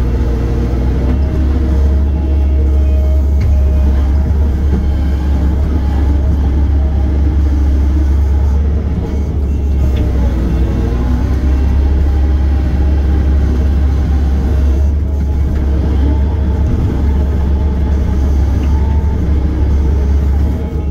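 Diesel engine of a piece of heavy earthmoving equipment running steadily at working speed: a deep, continuous drone whose pitch shifts a little over time.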